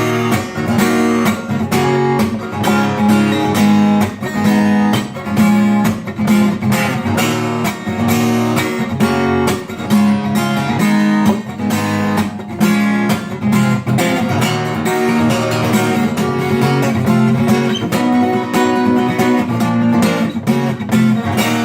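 Acoustic guitar strumming chords in a steady rhythmic «стук» pattern, the song's intro played with the chords left to ring out rather than cut off short.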